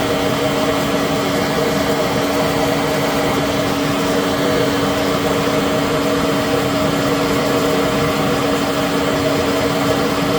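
Citizen L20 Type VII CNC Swiss lathe's main spindle running steadily at 7,000 RPM, with the rotary guide bushing turning, as a smooth, even hum with several held tones; very quiet for that speed.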